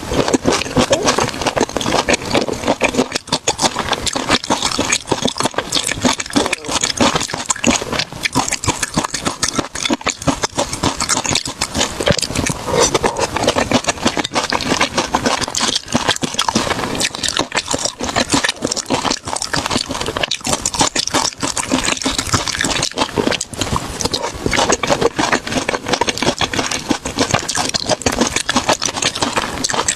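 Close-miked chewing and crunching of food, a dense run of irregular crackles and clicks with no pauses.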